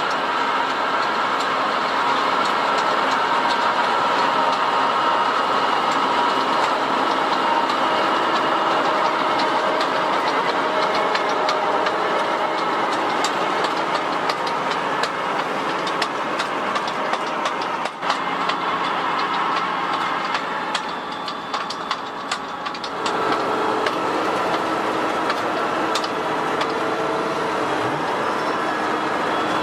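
Fendt 724 Vario tractor's six-cylinder diesel engine running steadily under load while ploughing, with many short clicks and rattles from the plough and front-mounted power harrow working the soil. The sound dips slightly about 21 seconds in and shifts in tone about 23 seconds in.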